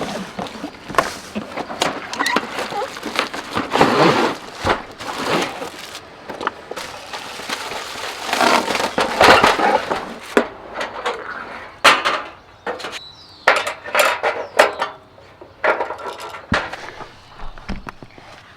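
Camp cooking gear being handled and set up: an irregular run of knocks, clinks and clatter with bouts of rustling.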